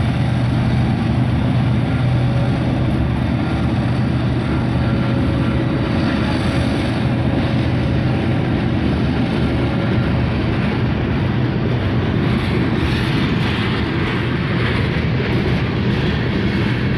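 Ferromex freight train's covered hopper cars rolling past close by: a steady rumble of steel wheels on the rails, with a low drone that fades out about two-thirds of the way through.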